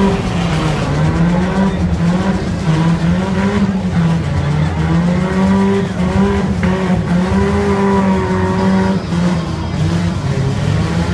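Demolition derby car's engine running loud and revving up and down as it drives over the dirt arena, heard from on board the car, with a few short knocks.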